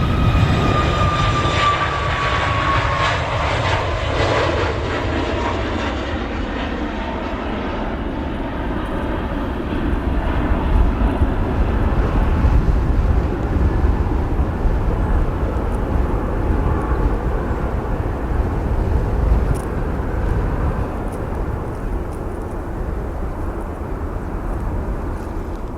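Airliner passing close by: a high engine whine falls in pitch over the first few seconds as it goes past, then a broad low rumble lingers and slowly fades.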